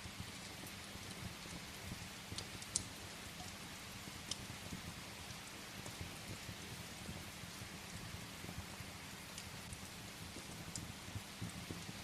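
Steady rain mixed with a wood fire crackling in a fireplace; a few sharp pops stand out, the loudest about three seconds in.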